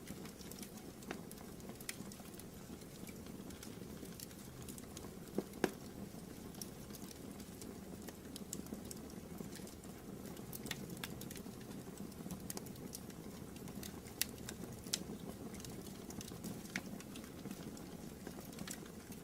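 Wood fire burning in a fireplace: irregular sharp crackles and pops over a steady low rumble of the flames, with a louder pop about five and a half seconds in.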